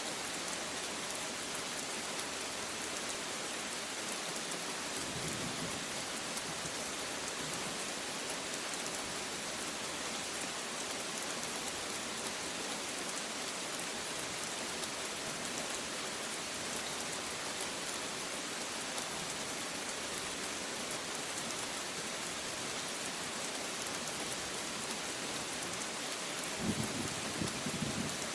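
Steady rain falling, with a brief low rumble of thunder near the end.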